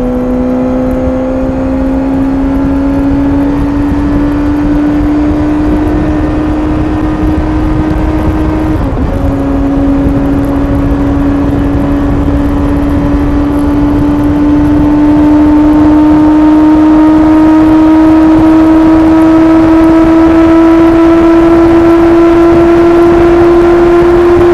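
Suzuki GSX-S750's inline-four engine through its stock exhaust, running at highway speed with its pitch slowly climbing as the bike gains speed. The pitch dips briefly about nine seconds in, and the engine gets louder about fifteen seconds in, over a low rumble of wind and road noise.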